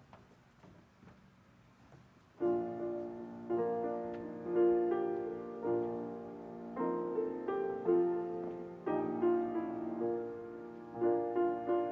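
Piano music starting suddenly about two seconds in after faint room tone: slow chords, each struck and left to fade before the next.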